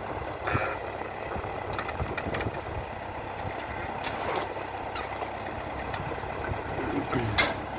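Valmet 705 tractor's diesel engine running steadily, with a few short clanks, about half a second in, about four seconds in and near the end.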